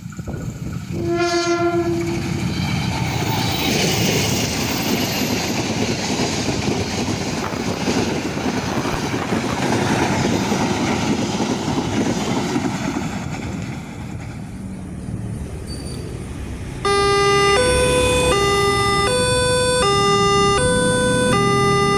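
A train sounds one short horn blast, then passes with a long rumble of wheels on rail that fades away. About three-quarters of the way through, a railway level-crossing warning siren starts up loudly, an electronic tone alternating between two pitches.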